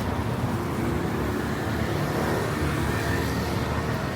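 Steady city street traffic: cars running past with a continuous engine and road noise.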